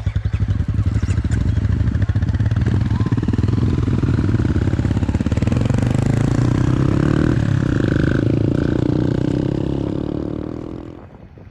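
Motorcycle engine running close by with a steady, pulsing beat, fading out about ten seconds in.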